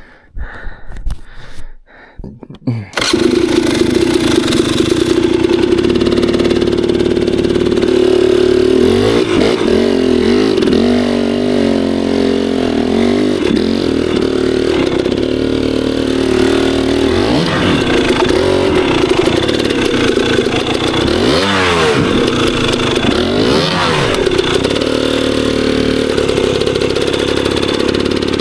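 KTM 300 two-stroke enduro dirt bike engine starting suddenly about three seconds in, then running at a steady idle, blipped up in revs several times.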